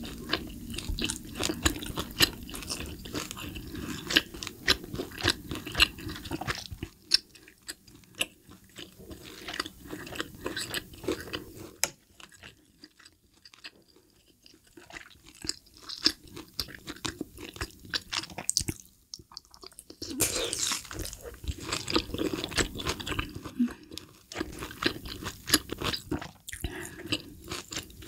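Close-miked chewing of grilled tomahawk steak: wet smacking and squelching mouth sounds. They thin out to a quieter stretch through the middle, then pick up strongly again.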